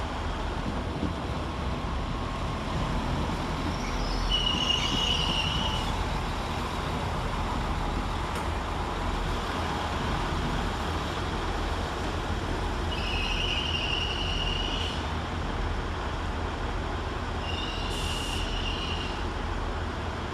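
Class 195 diesel multiple unit pulling into a platform, its engines giving a steady low rumble. Three short, high brake squeals come about four, thirteen and eighteen seconds in as it slows.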